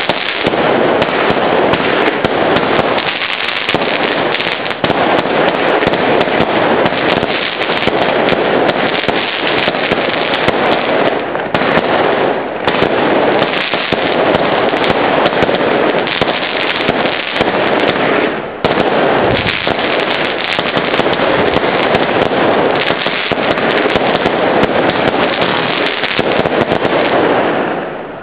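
A 49-shot fireworks cake firing as a dense, continuous barrage of crackling pops and bursts, with a few brief dips, dying away at the very end.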